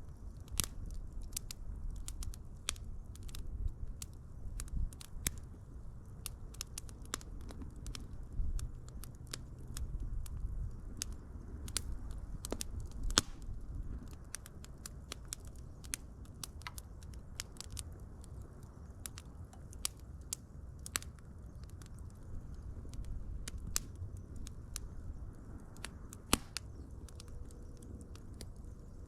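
Wood fire crackling, with sharp irregular pops and snaps over a low, steady rush of flame; one louder pop comes about halfway through.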